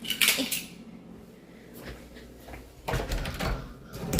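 Household items being handled and put away: a short clatter right at the start, then a run of knocks and low thuds about three seconds in.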